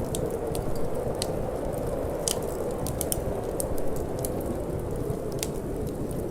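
Wood fire crackling, with sharp irregular snaps and pops, several a second, over a steady low rushing.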